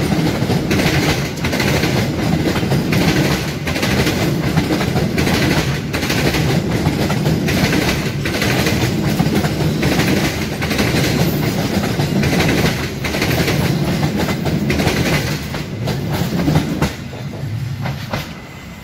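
Passenger coaches of a locomotive-hauled train rolling past close by: a steady rumble with the wheels clattering rhythmically over the rail joints. The sound drops away near the end as the last coach passes.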